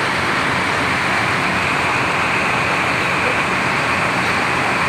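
Steady noise of buses idling and moving in a terminal, a continuous diesel engine drone with no sudden events.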